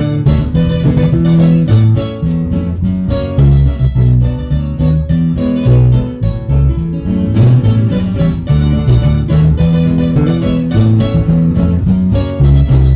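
Live guitar trio playing an instrumental passage: plucked guitar notes over a bass line, with no singing.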